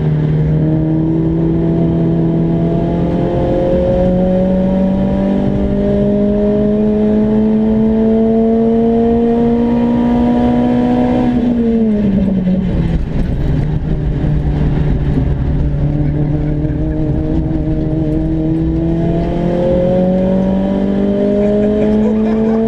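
Renault Clio RS engine heard from inside the cabin, pulling hard with its note climbing slowly for about eleven seconds. The note dips sharply around twelve seconds in, holds steady for several seconds, then climbs again near the end.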